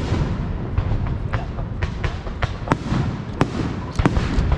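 Aerial fireworks going off: a string of sharp bangs, roughly two a second at uneven spacing, over a continuous low rumble.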